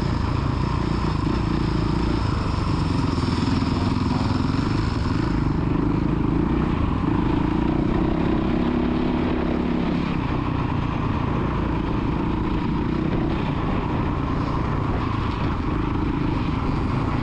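A child's motocross dirt bike engine running on the track, its pitch rising and falling as the throttle is worked.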